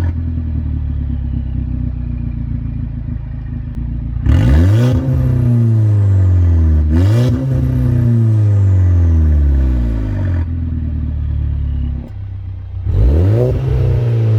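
Turbocharged four-cylinder of a Golf Mk6 GTI on a K04 turbo, through a 3-inch Milltek resonated exhaust with an exhaust valve. It idles and is revved in three quick blips, each rising sharply in pitch and then falling slowly back to idle.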